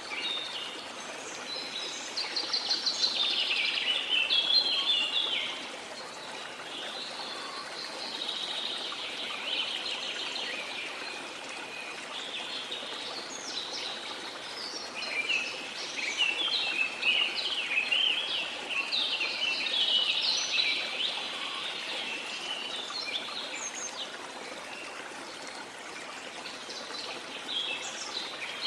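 Jungle birds singing in dense runs of quick, repeated chirps over the steady rush of a waterfall. The birdsong is busiest a few seconds in and again just past the middle.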